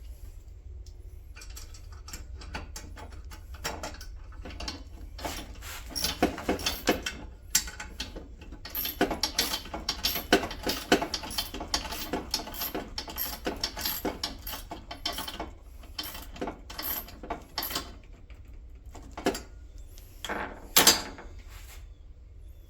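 Hand ratchet clicking in quick runs of strokes as a bolt is driven in, with a few louder metal knocks near the end.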